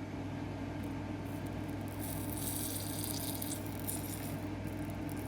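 A brief hiss, about a second long, starting about two and a half seconds in: solder flux sizzling as solder is melted into an XT90 connector's solder cup. Under it runs a steady low hum.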